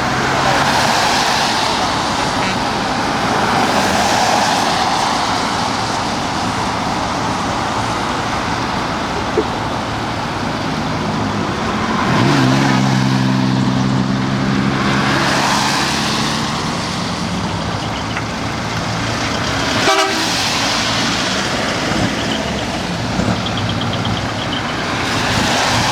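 Big trucks driving past one after another, their engine and tyre noise swelling and fading every few seconds. About twelve seconds in a truck horn sounds a long low note for roughly four seconds, and a horn sounds again near the end.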